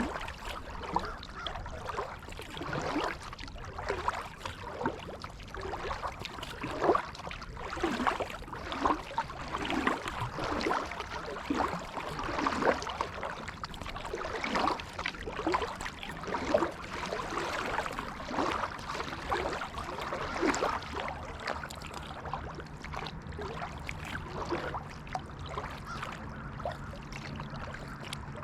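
Kayak paddle strokes in creek water: the blades dip and splash in a quick, irregular rhythm, with water trickling and dripping off them. The splashing eases off after about twenty seconds, leaving softer water sounds.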